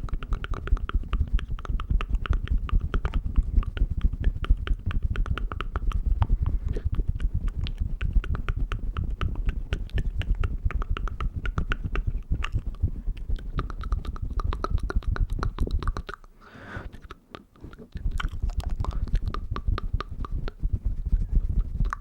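Close-miked ASMR mouth sounds: a rapid, dense run of wet clicks and smacks, broken by a short pause with a breath-like sound about three-quarters of the way in.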